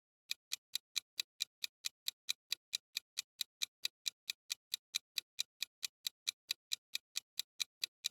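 Clock-ticking sound effect: a steady run of sharp, evenly spaced ticks, about four and a half a second, used as a countdown timer for a quiz question.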